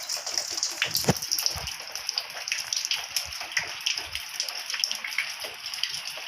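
Heavy rain, with water leaking through the roof and dripping and splashing indoors in many irregular drops over a steady hiss.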